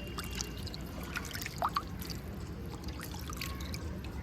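Light water sounds in shallow rainwater: scattered small drips and plinks, with one clear plop about a second and a half in, over a steady low background noise.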